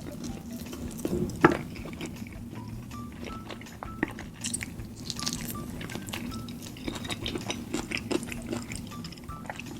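Close-miked chewing and biting of saucy chicken and quail, with small wet clicks and crunches and a sharp click about a second and a half in, over soft background music.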